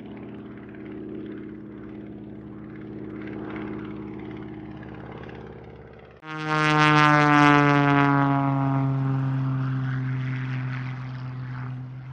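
Aircraft engine running steadily. About halfway through there is a sudden cut to a much louder propeller aircraft flying past close by, its engine pitch falling as it goes away.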